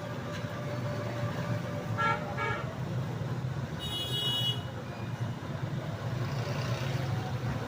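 Passing road traffic with a steady rumble of engines, two short horn toots about two seconds in and a higher-pitched horn blast about four seconds in.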